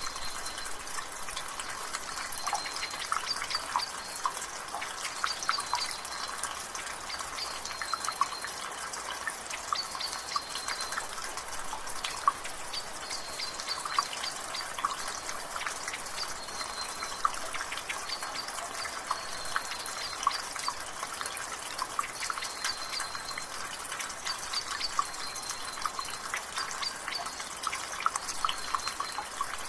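Rain water dripping from a gutter: irregular drips and splashes over a steady hiss of light rain. In the background a bird repeats short high chirps every second or two.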